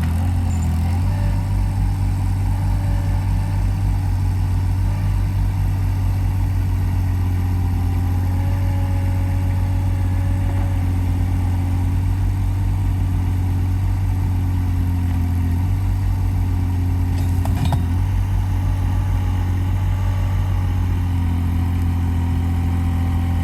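Avant 423 compact loader's diesel engine running steadily, its note shifting a few times as the hydraulics lift and set down beehives on the mover's forks. There is a brief clatter about two-thirds of the way through.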